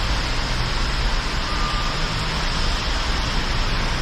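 Heavy rain pouring down in a steady, loud hiss, with a constant low rumble underneath.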